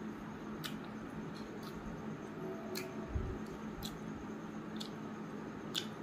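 Close-up mouth sounds of a person chewing food with the lips and mouth: sharp wet clicks and smacks about once a second, with soft squishes of food being handled by hand, over a steady low hum.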